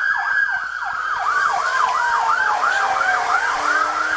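Police car siren running during a pursuit: a fast yelp, about four to five sweeps a second, with a slower wail sweeping down and back up over it.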